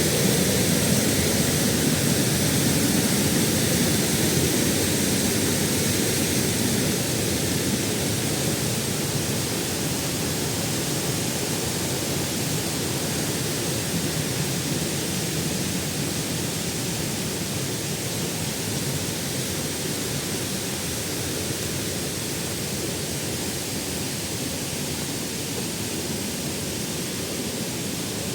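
Waterfall: a steady rush of falling water that grows slowly quieter over the stretch.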